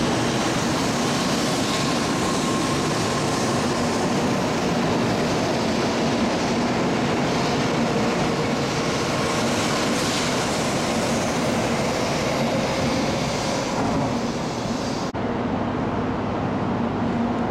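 N700-series Shinkansen train running out along the station platform: a steady rush and rumble of the moving train with a faint hum. About fifteen seconds in, the sound cuts abruptly to quieter station ambience.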